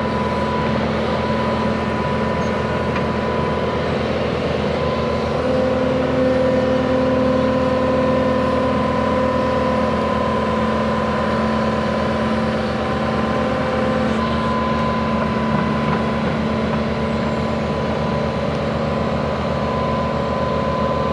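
Heavy equipment engine running steadily under load while pulling a water line plow through the ground, with a steady whine over the engine note that steps up slightly in pitch about five seconds in and settles back about fourteen seconds in.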